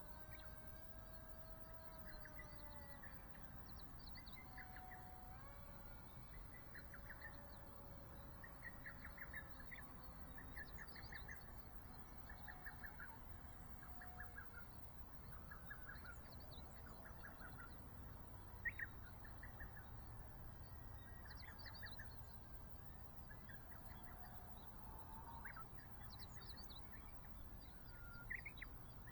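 Faint birdsong: many short chirps and calls from several birds, scattered throughout, one a little louder about two-thirds of the way in, over a low background rumble.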